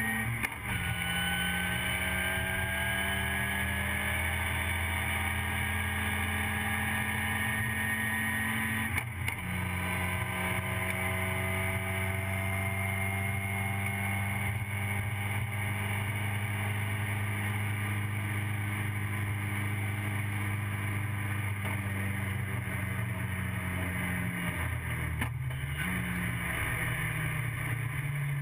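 TVR Vixen's Ford Kent Crossflow four-cylinder racing engine at full throttle, heard inside the cockpit, the pitch rising through the gears with quick upshifts about half a second in and about nine seconds in. Near the end the revs drop as the driver lifts off.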